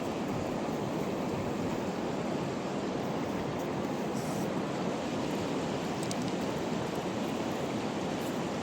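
Fast mountain river rushing in a steady, unbroken roar of water.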